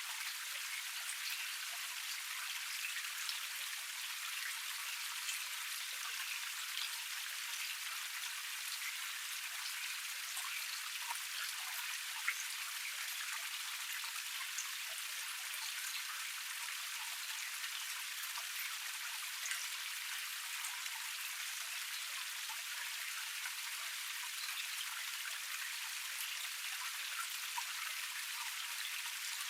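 Water of a small forest cascade flowing and splashing over rocks: a steady, even splashing rush full of tiny drips and spatters.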